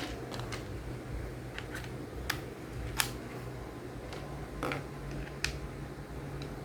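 Scattered sharp clicks and taps of small hard parts being handled, about eight in all with the loudest about three seconds in, over a steady low hum.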